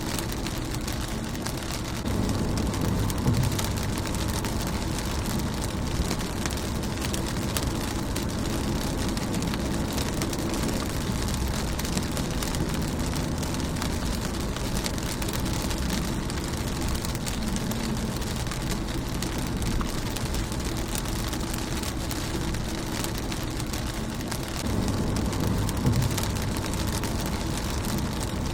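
Steady rain falling on a car's windscreen, an even hiss dotted with the ticks of single drops. A low rumble swells in about two seconds in and again near the end.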